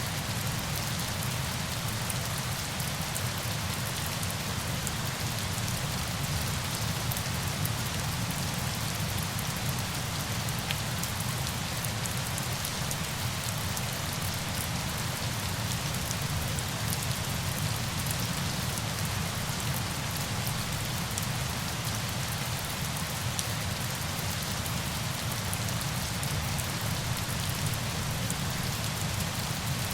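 Steady rush of falling water with a faint patter of drops, even and unchanging.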